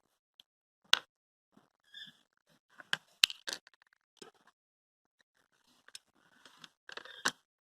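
Scattered small clicks and taps with faint rubbing: a plastic eyeglass frame and a UV glue pen being handled while glue is applied to the broken frame edge.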